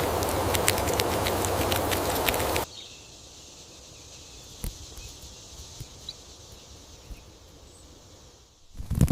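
Crackly rustling full of small clicks, which cuts off suddenly about two and a half seconds in. Then a quiet outdoor background with a faint high hiss and a few soft ticks. Near the end comes a run of loud knocks.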